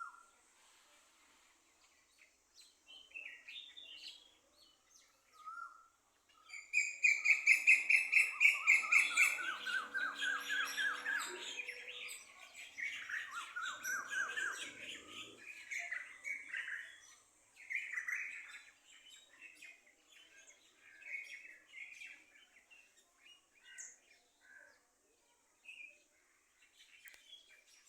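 A songbird singing in phrases of rapid repeated notes. The song is loudest in a long run of fast trills about a third of the way in, with quieter scattered chirps before and after.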